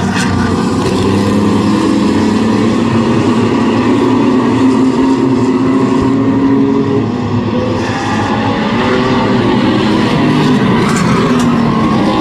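Several race trucks running at speed around an oval track, their engines' pitch rising and falling as they go through the turns, the sound briefly dropping a little about seven seconds in.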